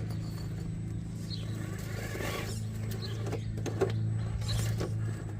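Vanquish Phoenix VS4-10 RC rock crawler creeping over the course: a steady low motor hum with a few scattered clicks and knocks.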